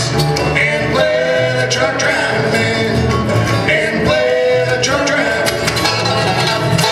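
Bluegrass band playing a country song live: banjo, flat-top guitar, mandolin and upright bass, with busy plucked notes over a steady bass line.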